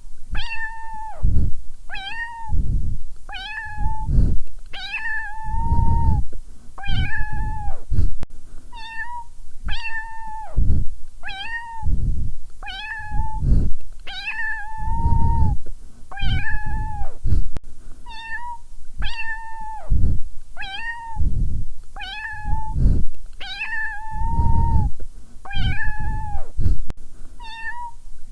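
A kitten meowing over and over, high-pitched calls each dropping at the end, about one every second and a half.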